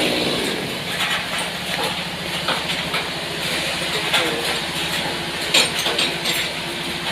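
Sawmill engine idling steadily after a cut has wound down, with scattered knocks and clicks from handling wood and the machine.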